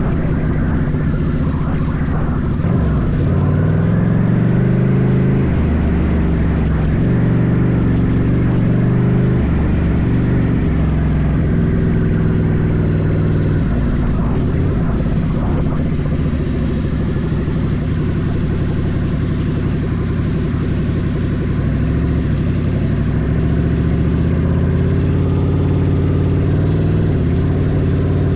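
Ducati Scrambler's air-cooled V-twin engine running on a sand trail ride, its revs rising and dropping again every few seconds as the rider works the throttle and shifts gears.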